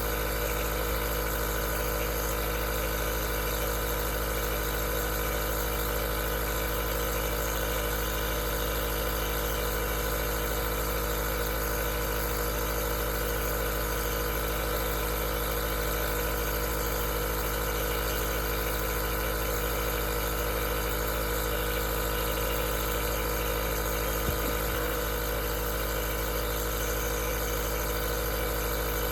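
Aerosol nebulizer running steadily: an even machine hum made of many fixed tones over a constant airy hiss.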